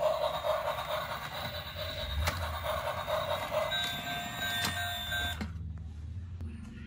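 Battery-powered transforming Thomas robot toy train running: its motor hums while its speaker plays a pulsing electronic sound effect. About two-thirds of the way in this turns to steady electronic tones, which stop shortly after. There is a single click near the middle.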